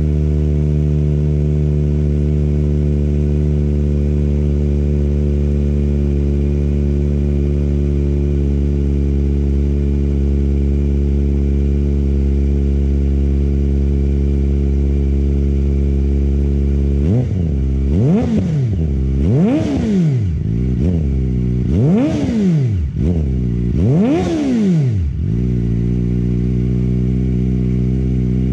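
Kawasaki ZX-4RR's 399 cc inline-four, fitted with a Yoshimura Hepta full exhaust, idling steadily while warming up from a cold start. About two-thirds of the way in it is revved in four quick throttle blips, each climbing and falling back, before it settles to idle again.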